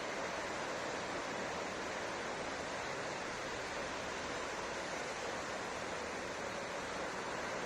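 Ocean surf on a beach: a steady, even rush of breaking waves, with no single wave standing out.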